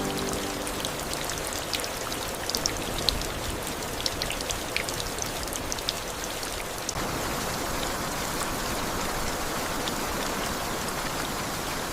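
Steady water-like hiss with scattered light pops and crackles through the first half, thickening into a denser hiss about seven seconds in.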